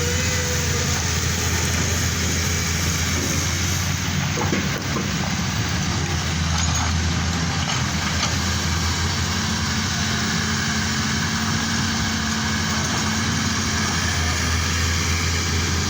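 Heavy road-construction machinery running steadily, its diesel engine giving a constant low drone.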